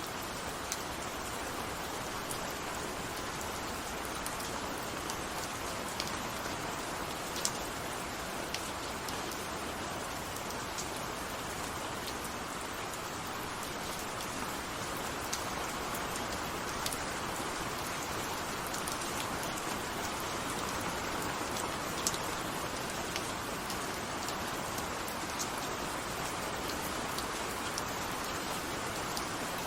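Steady rain falling, an even hiss with scattered sharp drips of individual drops landing close by.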